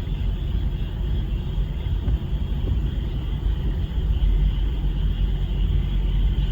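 A continuous high-pitched chorus of frogs over a steady, louder low rumble.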